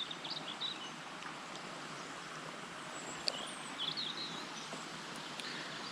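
River water flowing steadily, with a few short bird chirps near the start and again about three to four seconds in.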